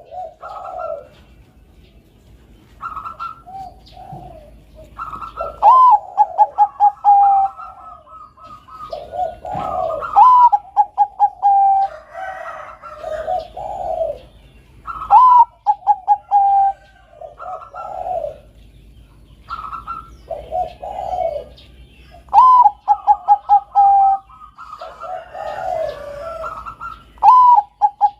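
Zebra dove (perkutut, Bangkok song strain) singing its cooing song: each phrase is a quick run of short staccato coos ending in a longer held note, repeated every two to three seconds.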